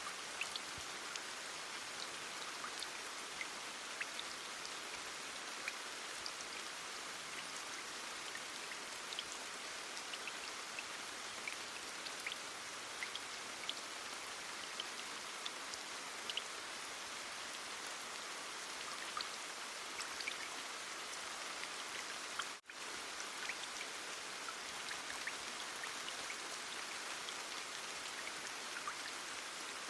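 Steady heavy rain: an even wash of rainfall with many separate drops ticking through it. It cuts out for a split second about three-quarters of the way through.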